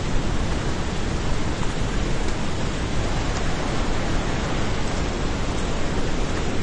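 Flash-flood water rushing down a river channel: loud, steady churning noise of the torrent with no let-up.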